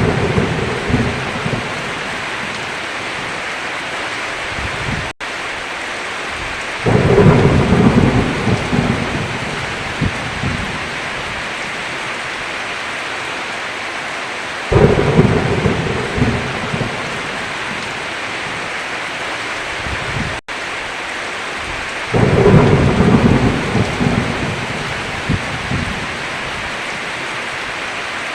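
Heavy, steady rain with thunder rolling three times, each roll coming in suddenly and fading over a few seconds, about every seven to eight seconds. The sound cuts out for an instant twice.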